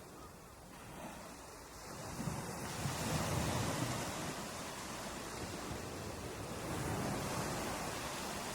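Ocean waves breaking on a beach: the surf is quieter at first, then a wave swells up about two seconds in and crashes, leaving a steady wash of surf.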